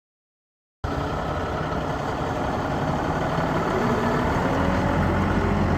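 Mack EM7-300 diesel engine of a 1998 Mack DM690S truck idling steadily, the sound cutting in suddenly about a second in.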